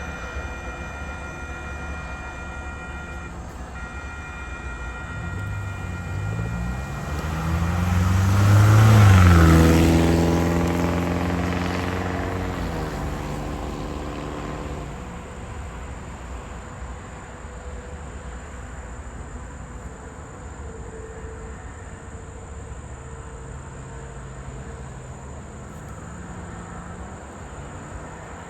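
A train passing by, loudest about nine seconds in. Its machinery tones rise in pitch as it comes on, drop as it goes past, and fade away over a steady rumble.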